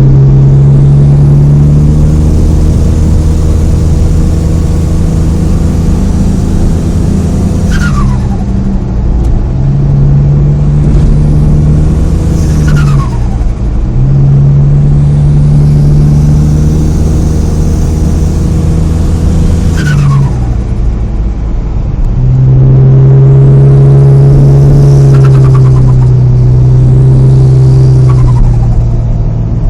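Turbocharged car engine revved and held, then let off about five times; at each lift a high turbo whistle falls away, and the engine note drops as the turbo flutters.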